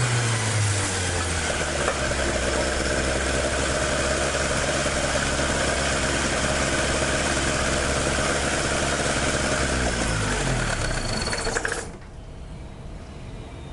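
Toyota 4A-G five-valve (20-valve) four-cylinder on 50 mm carburettors, with a wrapped exhaust header and stock muffler, idling steadily with carburettor intake noise and valvetrain mechanical clatter. About ten seconds in the revs sag, and the engine stops just before twelve seconds.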